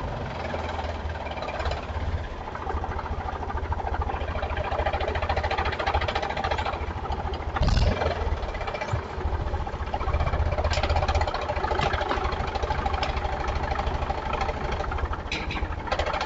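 Tractor engine running steadily with a rapid low pulsing, and one short loud thump about eight seconds in.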